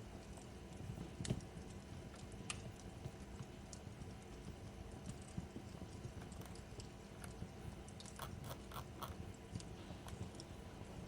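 Fireplace crackling: irregular sharp snaps and pops over a low steady rumble, with a quick run of snaps about three-quarters of the way through.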